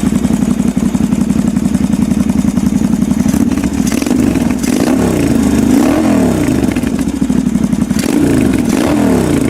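Motorcycle engine running loud and steady, then revving, its pitch rising and falling over and over in the second half; it cuts off abruptly at the end.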